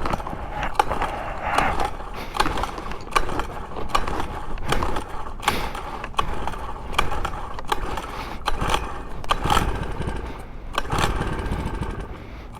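Motorized bicycle under way: its small 49cc four-stroke engine runs steadily, with many irregular short knocks and rattles through the ride.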